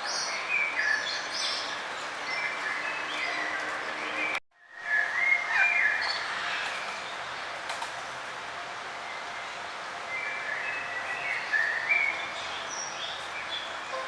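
Small songbirds chirping and trilling in short phrases over a steady background hiss. The sound cuts out completely for a split second about four and a half seconds in, then the calls resume.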